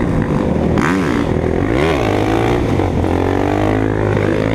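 Motorcycle engine running, revved up and back down twice in quick succession about one and two seconds in, then holding a steady pitch.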